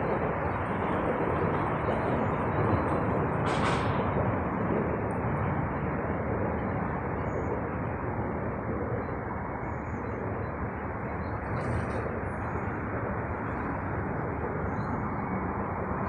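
Steady outdoor noise with no clear pitch, with two brief hisses, one about three and a half seconds in and one near twelve seconds.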